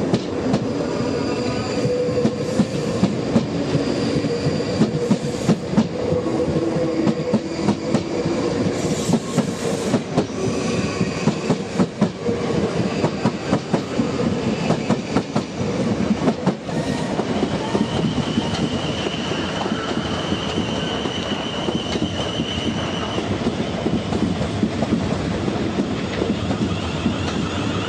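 Electric multiple unit passing close over junction pointwork, its wheels clattering irregularly over the crossings and rail joints, with squealing tones from the wheels. After about 17 s the clatter eases into a steadier rumble with a held high whine for several seconds.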